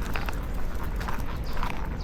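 Shiba Inu and border collie on a walk: light, irregular clicks of their claws and steps on pavement over a steady low rumble.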